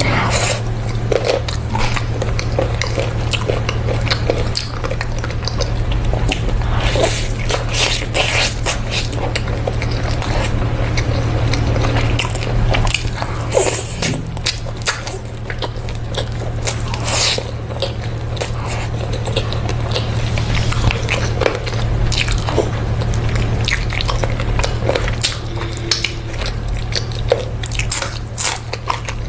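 Someone biting and chewing a chicken leg piece, with many short crunchy bites and mouth clicks at irregular intervals, over a steady low hum.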